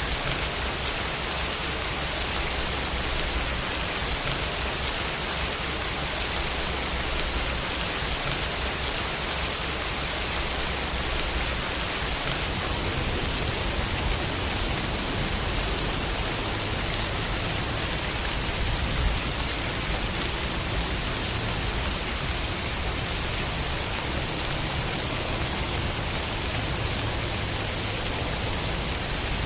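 Steady rain falling, an even dense hiss that holds at the same level throughout.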